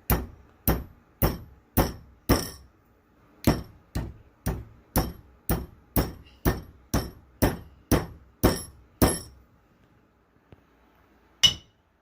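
Hammer pounding a wedge into the top of an axe handle to lock the head on. The blows come steadily about two a second, with a short pause after the fifth, and stop about nine seconds in. Near the end come two sharper blows with a brief ringing note.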